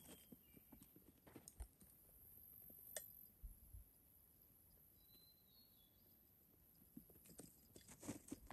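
Faint, scattered soft thumps and scuffs of a cat scampering and pouncing after a laser pointer dot, with one sharper click about three seconds in and a quicker run of taps near the end.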